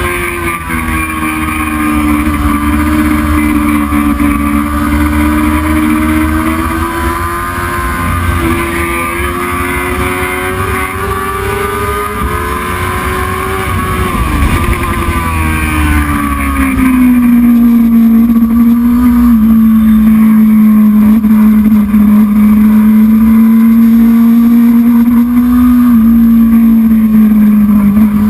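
Racing motorcycle engine running hard at a high, steady pitch with small shifts up and down. About halfway through the pitch falls to a lower steady note and the sound gets louder.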